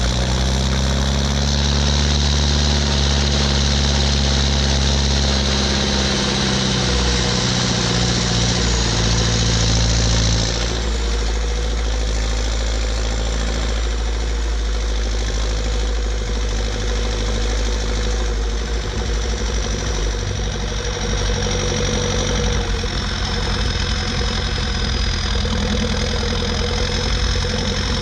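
Ursus 1014 tractor's four-cylinder turbo diesel running on a straight exhaust pipe, working hard under load with a strong, steady note for about ten seconds, then easing off to a lower, less pronounced note.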